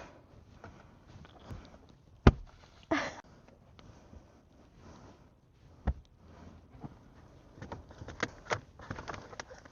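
Handling noises inside a car cabin: scattered knocks and clicks of things being moved and set down, with a sharp knock a couple of seconds in and a run of smaller clicks near the end.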